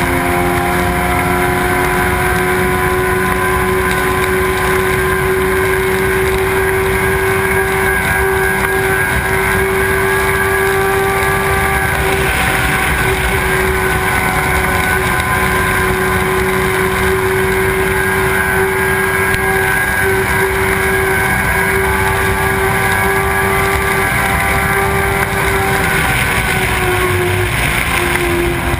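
Suzuki sport motorcycle's engine running at a steady highway cruise with a rush of wind, its note holding level and then dropping a little near the end.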